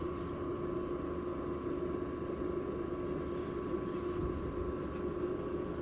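Smart Life electric heater's fan motor running steadily, a continuous hum with a fainter, higher steady tone above it.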